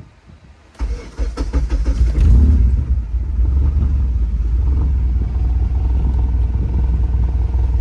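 Honda K24 four-cylinder engine cranked by the starter for about a second, catching with a brief rev flare, then settling into a steady idle.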